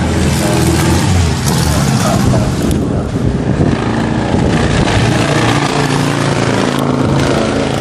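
Vintage car engine running loudly, its note shifting pitch a few times.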